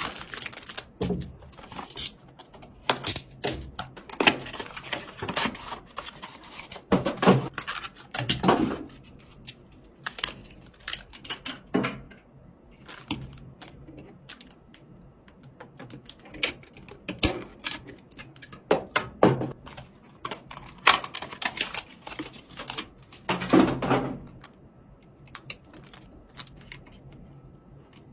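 Irregular clicks, clacks and short rattles of computer hardware being handled and fitted together, over a faint steady low hum.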